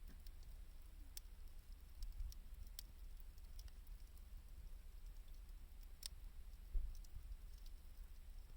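Wood bonfire crackling, with scattered sharp pops over a low rumble and a dull thump about two-thirds of the way through.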